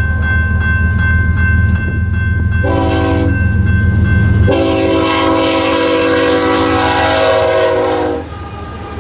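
Freight diesel locomotive's multi-chime air horn: a short blast about three seconds in, then a long blast of about four seconds. The pattern fits the end of the long-long-short-long grade-crossing signal. A heavy, low diesel rumble runs under the horn and drops away partway through, as the train passes.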